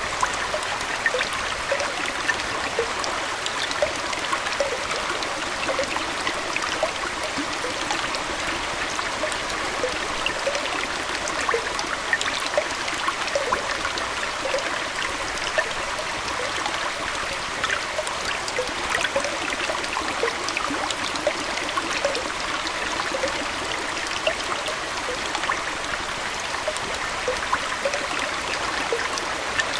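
Aquarium water trickling steadily, with frequent small plinks and splashes scattered through the flow.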